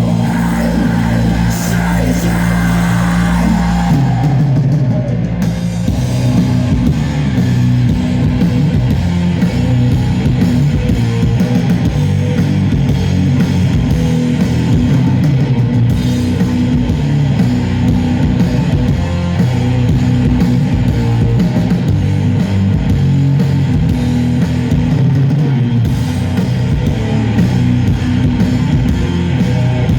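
Stoner doom metal band playing live: distorted electric guitars and bass over a drum kit. A held low chord gives way to a repeated riff about four seconds in.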